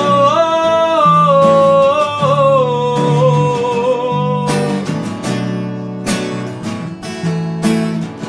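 Song accompaniment of acoustic guitar with a man's voice holding the last sung note of a line, which sinks slowly in pitch and stops about four and a half seconds in. The acoustic guitar then strums on alone.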